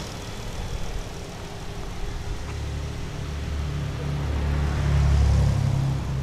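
Dodge Charger GT's 3.6-litre V6 idling with the hood open, a steady low rumble that swells louder about four to five seconds in.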